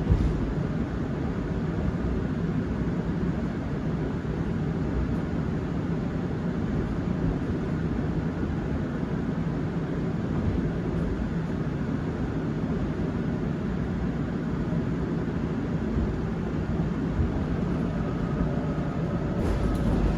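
Interior running sound of a Seoul Subway Line 7 7000-series electric train: a steady low rumble of wheels and running gear on the track, with a knock near the end.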